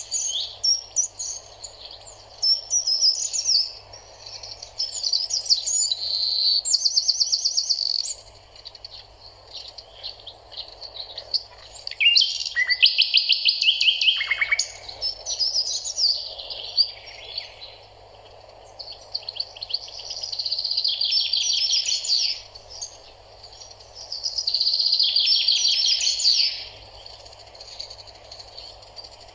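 Small songbirds singing in bouts of quick chirps and rapid trills, broken by short pauses, over a faint steady background hum.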